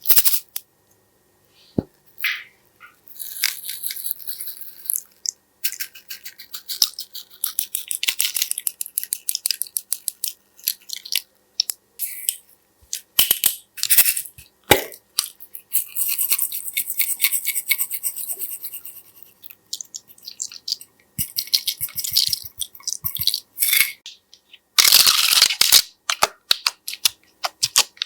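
Slime being worked by hand: fast runs of sticky clicks, pops and crackles in several spells, the loudest and densest near the end.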